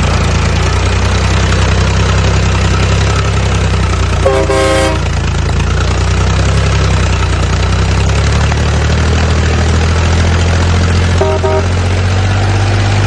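Toy RC truck's electronic sound effects: a steady engine-idle drone with two horn toots, a longer one about four seconds in and a shorter one near eleven seconds.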